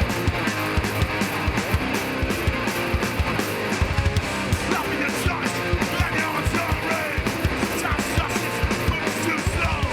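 Hardcore band playing live and loud: distorted electric guitars and bass over fast, dense drumming.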